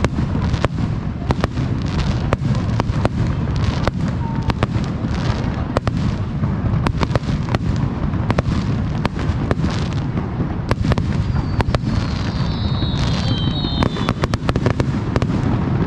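Aerial fireworks display: a rapid barrage of shell bursts and sharp cracks over a continuous low rumble. A brief high whistling tone rises out of it about three-quarters of the way through.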